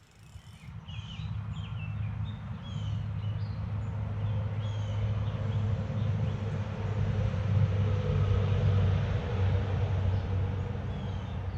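A low, steady motor rumble, like a passing vehicle, that comes in suddenly at the start and holds, with small birds chirping over it.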